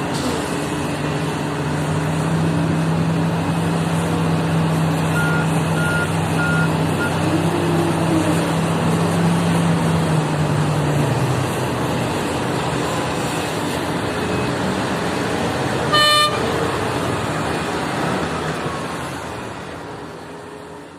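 Heavy diesel machinery running steadily on a work site, with a steady engine hum through the first half. Four short high beeps sound around five to seven seconds in, a single short horn toot about sixteen seconds in, and the sound fades out near the end.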